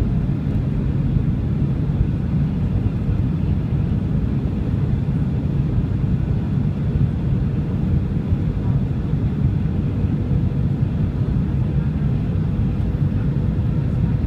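Boeing 737-800 with its CFM56-7B turbofans running: a steady, unchanging low rumble with a faint steady hum on top.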